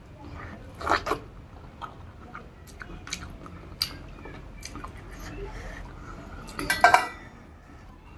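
Close-up eating sounds of a person chewing a rice-and-curry meal, with scattered short clicks and two louder bursts, about a second in and just before seven seconds.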